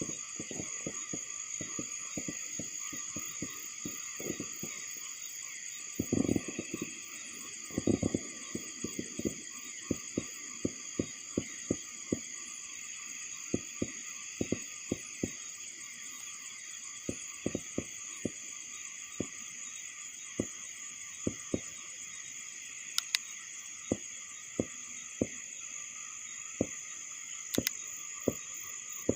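Steady night chorus of crickets and other insects, several high shrill layers at once, with frequent short low thumps scattered through it, two of them longer a few seconds in.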